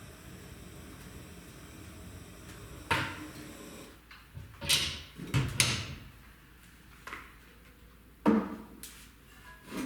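A series of about six clunks and knocks with short scrapes, the loudest near the end, from opening and shutting a homemade brick fireplace's door and ash drawer.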